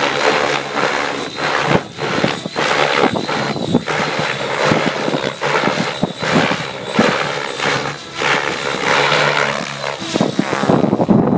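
Align T-Rex 700E electric RC helicopter with an 800MX motor in flight: rotor-blade noise and motor whine, surging and dropping irregularly in loudness.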